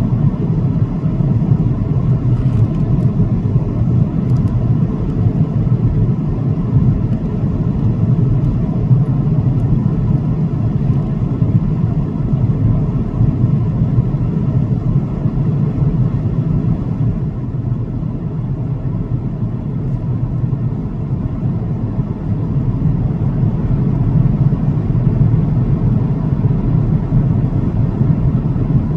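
Steady low rumble of jet engines and airflow inside the cabin of an Airbus A330-900, heard from a passenger seat, dipping slightly about two-thirds of the way through.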